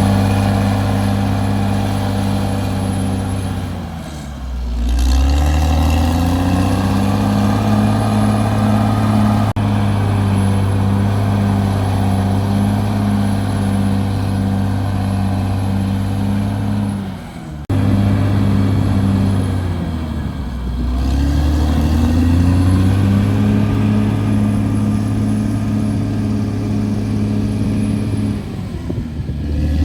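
CAT D6R bulldozer's diesel engine running hard, its pitch sagging and climbing back up several times as it works.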